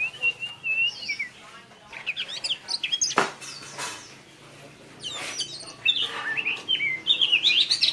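Small birds chirping and twittering: a held, wavering whistle at the start, then bursts of quick high chirps that grow denser and louder near the end.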